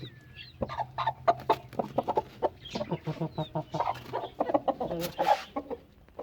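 A hen clucking in quick, short, repeated clucks, with a brief rustling burst about five seconds in.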